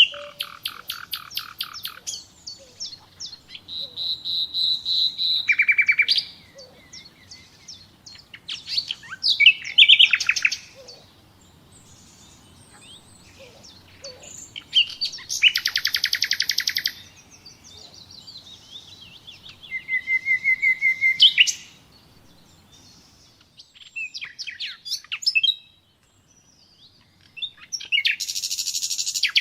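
Common nightingale singing a string of varied song phrases with short pauses between them: rapid repeated notes, fast trills and pure whistles, some phrases swelling in loudness as they go.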